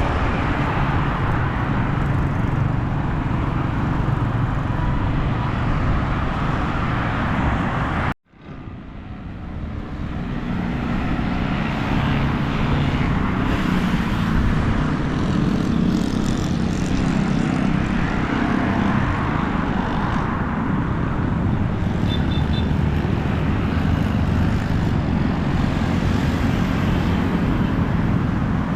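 Steady rumble of road traffic from a busy street. About eight seconds in the sound cuts out abruptly and fades back in over a couple of seconds.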